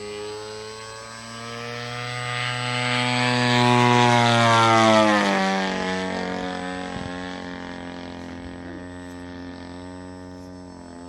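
Large 120cc gasoline RC airplane engine flying past: it grows louder, drops in pitch as it passes about five seconds in, then fades as it flies away.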